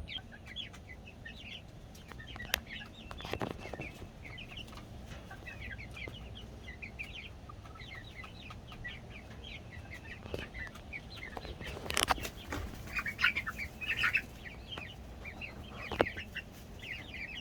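A flock of American Bresse chicks peeping constantly in short, high chirps. A few sharp knocks break in, the loudest about two-thirds of the way through.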